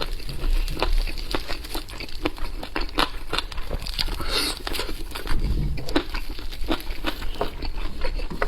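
Close-miked eating sounds: chewing and biting, with a steady run of short sharp clicks and crackles.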